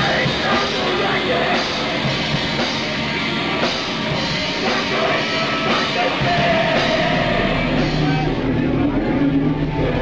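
Live noise band playing a dense, loud wall of distorted noise with pounding hits and wavering shouted or screamed voices, in the echo of a tunnel. A steady low drone joins in about eight seconds in.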